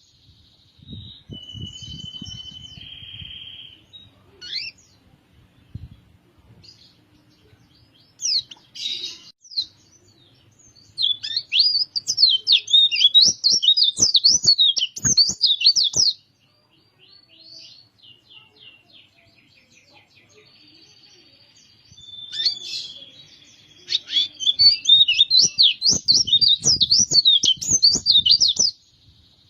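White-eye (pleci) singing: two long runs of rapid, high twittering song, one starting about ten seconds in and one near the end, with softer scattered chirps and short whistled notes between them.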